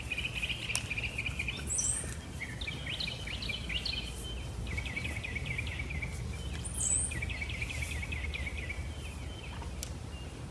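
Birds chirping in rapid twittering runs, with two brief high squeaks, over a steady low rumble.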